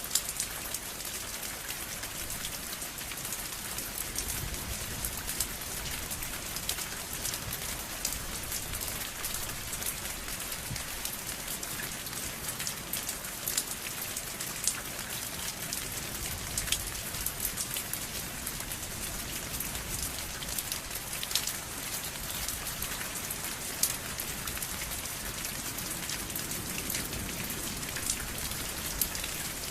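Steady rain falling on a surface, with a constant hiss and many individual drops ticking sharply throughout.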